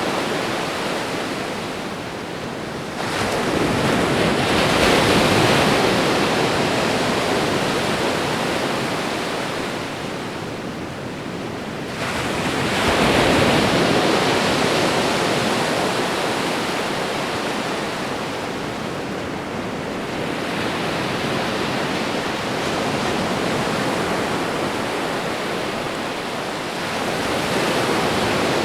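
Ocean surf breaking and washing on a shore in a steady rush of noise, with a wave swelling up about three seconds in and another about twelve seconds in, each fading slowly.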